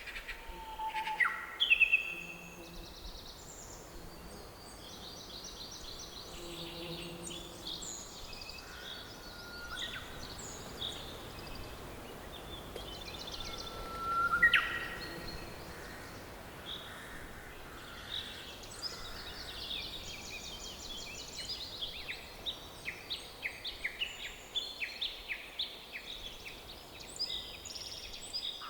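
Several birds singing and calling in a forest chorus over a faint steady background hiss. Two louder calls sweep upward in pitch, one about two seconds in and one about halfway through. Quick repeated chirps crowd the second half.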